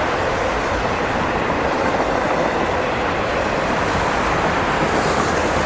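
CSX freight train rolling past, its cars running steadily over the rails.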